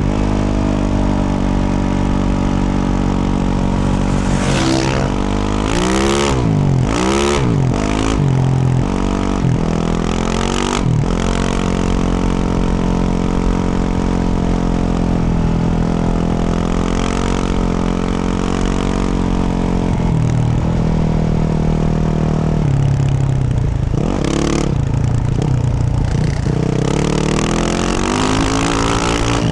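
Yamaha YZ450F's single-cylinder four-stroke engine through a Yoshimura RS-12 exhaust, under way and revving. The revs swing up and down several times in quick succession, settle into a steadier pull for a stretch, then dip and climb again near the end, with a few brief knocks and clatter mixed in.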